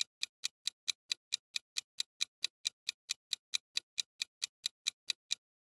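Quiz countdown timer sound effect: a steady clock-like ticking, about four to five ticks a second, stopping shortly before the end.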